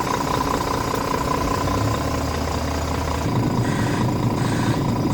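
Scania R tractor unit's diesel engine idling steadily, its tone changing about two-thirds of the way through.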